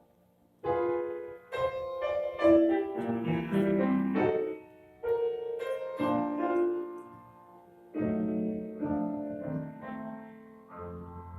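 Piano playing an instrumental interlude between sung verses: phrases of struck melody notes and chords, each note ringing and fading.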